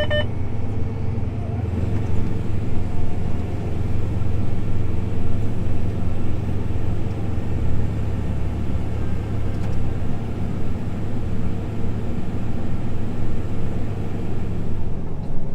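Combine harvester engine and machinery droning steadily, heard from inside the cab as a low, constant rumble.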